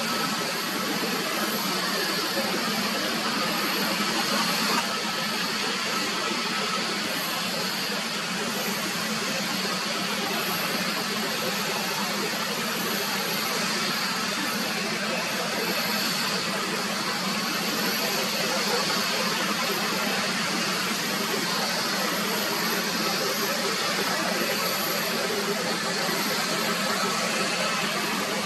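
Jet airliner engines running steadily: an even, constant rush with a faint high-pitched whine on top.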